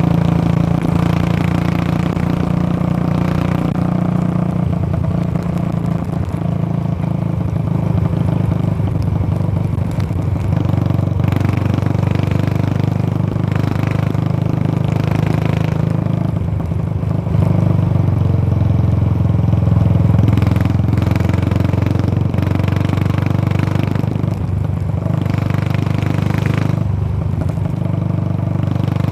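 Royal Enfield Classic 350's single-cylinder engine running through a short-bottle Punjab silencer, a steady deep exhaust thump. The note swells louder for a few seconds past the middle, then settles back.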